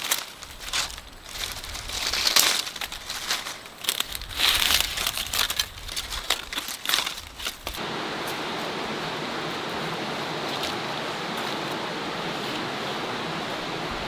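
Irregular crinkling and rustling in uneven bursts, then, about three quarters of the way in, a sudden cut to a steady rushing like running water.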